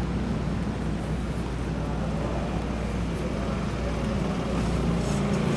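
City street ambience: a steady low rumble of road traffic and engine hum, with no distinct single event.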